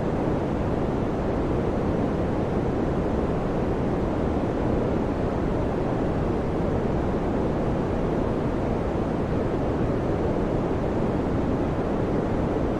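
Electric fan running steadily: an even, low-pitched rush of air with no tone, rhythm or change.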